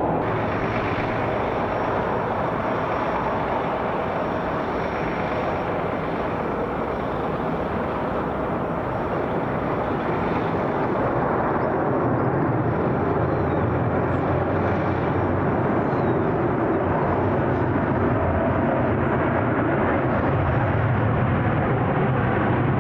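Airbus A350-1000 jet engines, Rolls-Royce Trent XWB-97s, as the airliner comes in to land: a steady jet engine noise that grows a little louder and deeper in the second half.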